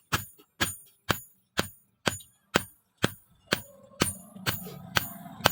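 Hammer blows on steel over an anvil, about two strikes a second, each with a bright metallic ring: hand forging of leaf-spring steel. A low hum joins in about three and a half seconds in.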